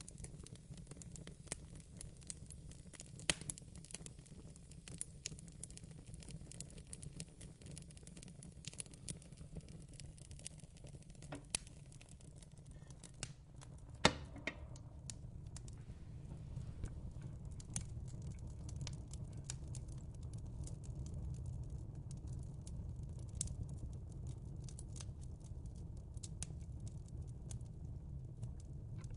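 Wood fire crackling: scattered pops and snaps over a low steady rumble, with one sharper pop about halfway through.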